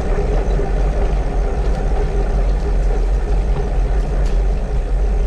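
Wind rushing over the microphone of an action camera on a moving bicycle: a steady low rumble with no break.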